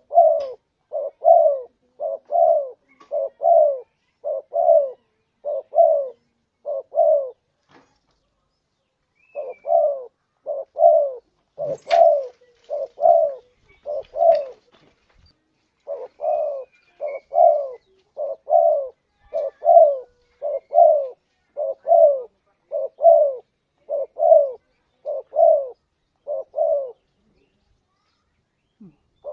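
Spotted dove cooing: a long run of evenly repeated low coos, broken by short pauses of a second or two.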